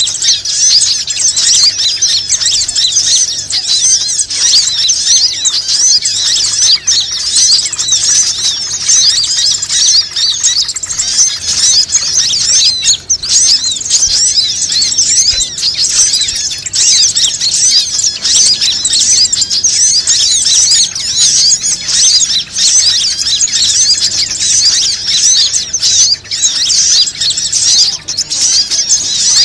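Bird-lure recording: a dense, unbroken chorus of many small birds' high-pitched chirps and twitters, played loud to call in wild birds.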